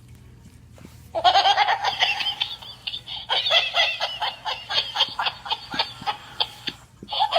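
Jumpin' Banana animated rolling monkey toy playing its recorded laughter, starting about a second in and running in rapid bursts, with a short break near the end before it starts laughing again.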